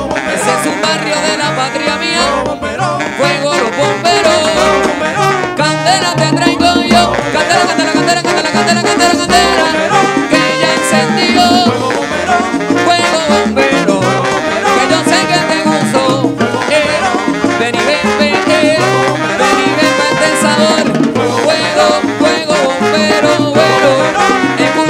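Salsa music played by a charanga band: a steady dance groove with bass and percussion, and singing.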